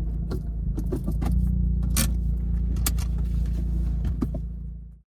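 Mazda RX-8 two-rotor rotary engine running steadily through a Fujita Engineering SonicMuffle exhaust, with scattered sharp clicks over the top; the sound fades out quickly near the end.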